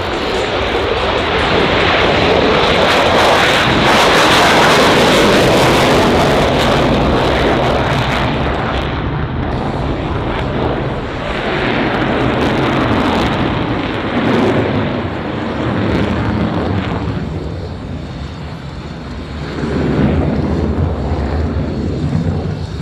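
Jet aircraft engine noise, a loud rushing sound that is strongest a few seconds in, then eases off and swells again near the end.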